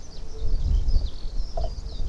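Small birds chirping and twittering over a loud low rumbling noise, with one short lower call about one and a half seconds in.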